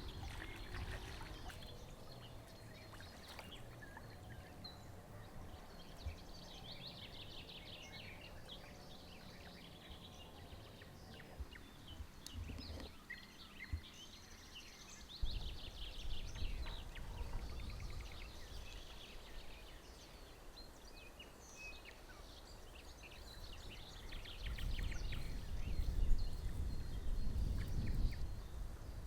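Several small birds singing, with repeated chirps and trills, over a low rumble that swells around the middle and again near the end.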